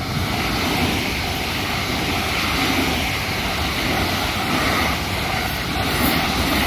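A JR Kobe Line train passing through a level crossing at speed: a loud, steady rush of wheels and air that starts suddenly. Under it the crossing's warning bell keeps ringing, about two strokes a second.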